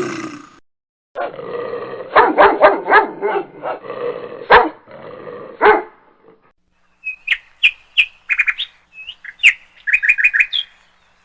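A dog barking repeatedly, some barks louder and sharper than others, for about five seconds. After a short pause a small bird chirps in quick, high calls for about three and a half seconds.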